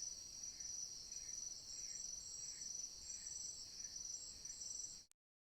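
Steady high-pitched chorus of forest insects, with a fainter lower note repeating about twice a second. The sound cuts off suddenly near the end.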